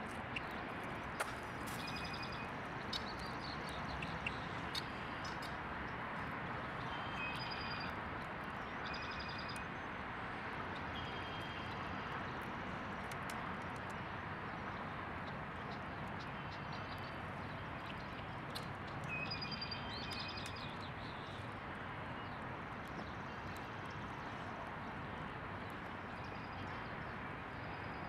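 Small birds giving short, high chirps in scattered clusters over a steady outdoor hiss, with a few sharp clicks in the first few seconds.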